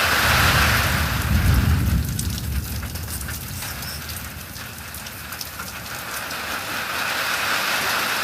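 Storm wind and rain: a steady hiss, with a heavy, gusting deep rumble of wind on the microphone over the first two or three seconds that then eases off.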